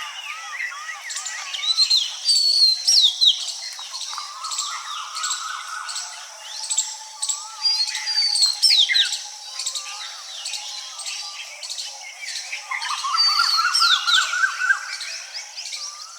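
Several birds calling at once: sharp downward-sweeping whistles, runs of short arched notes, and a quick rising series of notes about two-thirds of the way through.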